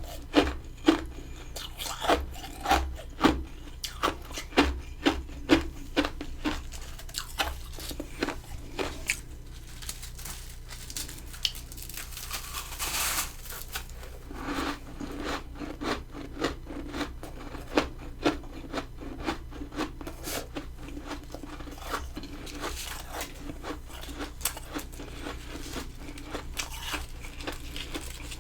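Close-up crunching of freezer frost being bitten and chewed: many sharp crunches in quick succession, loudest in the first seven seconds or so, then softer and more scattered, with a longer grinding scrape about halfway through.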